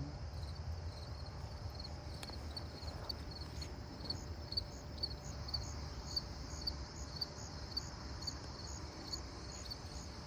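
Insects chirping in a steady rhythm, about two short high chirps a second, with a second, higher-pitched series alongside, over a steady low rumble.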